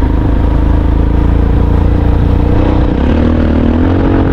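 Vehicle engine working hard while driving through very loose sand, a steady rumble that rises in pitch about three seconds in as it revs up.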